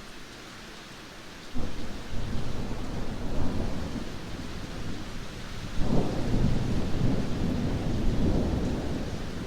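Steady heavy rain with rolling thunder: a sudden low rumble breaks in about a second and a half in, and a second, louder clap near six seconds rumbles on over the downpour.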